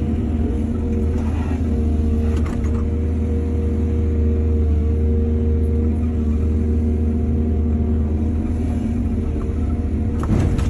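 Excavator's diesel engine running steadily, with short clanks about two seconds in and again near the end.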